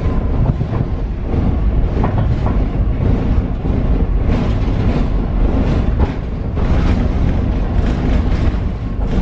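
Paris Metro Line 7bis train running on steel wheels: a steady low rumble with repeated short clicks and clatters from the wheels over the track.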